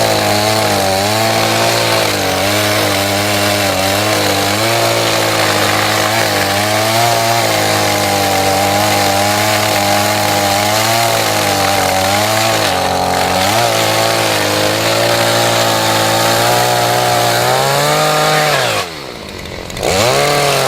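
Chainsaw running at full throttle while cutting wood, its pitch wavering as the chain bites into the log. Near the end it drops to idle for about a second, then revs back up.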